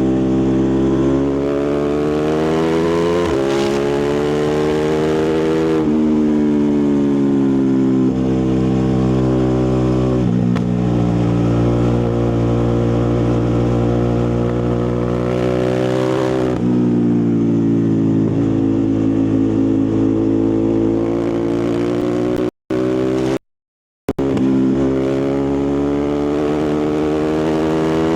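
Ducati Multistrada 1260 Pikes Peak's 1262 cc V-twin running through its exhaust under way, the engine note rising under acceleration and stepping down at each gear change, then holding steadier before pulling up again. The sound cuts out briefly twice near the end.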